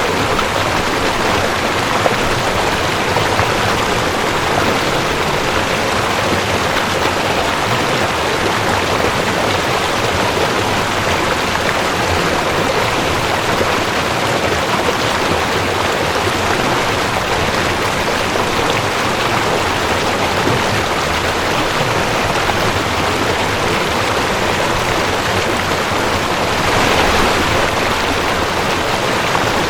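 Cold mountain stream rushing over rocks: a steady, even water rush, swelling briefly near the end.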